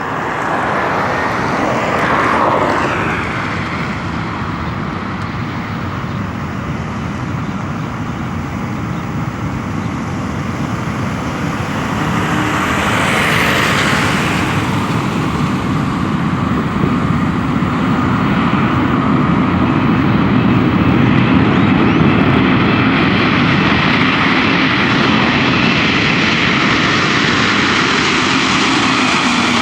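Boeing 747 jet engines at takeoff power, a loud steady roar that swells briefly about 2 s in and grows louder through the second half as the jet takes off.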